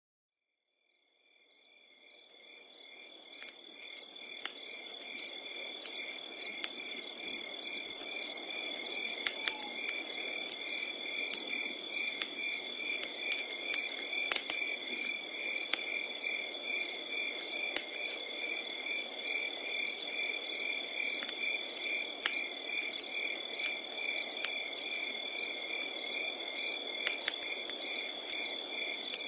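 Wood fire crackling with scattered sharp pops and a soft steady rush, over a chorus of crickets: a continuous high trill with evenly pulsing chirps. The whole fades in over the first few seconds.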